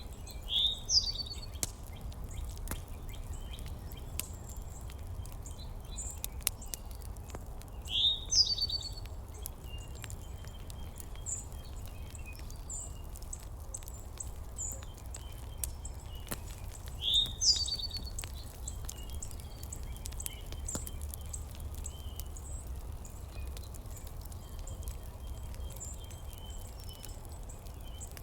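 A bird's call, a quick upward-sweeping note, heard three times at intervals of about eight to nine seconds. Beneath it run a steady low rumble and faint scattered ticks and chirps.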